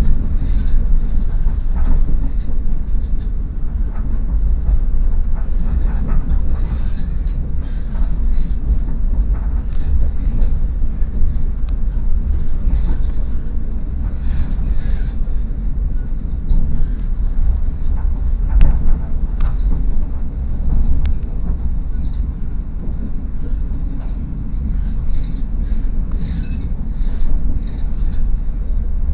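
Passenger train running at speed, heard from inside the carriage: a steady low rumble with a few sharp clicks, the loudest about two-thirds of the way through.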